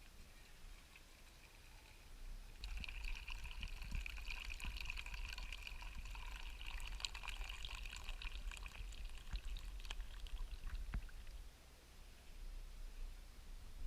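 Water being poured into a container: a steady trickling pour that starts about three seconds in and lasts some seven seconds, followed by a couple of small clicks.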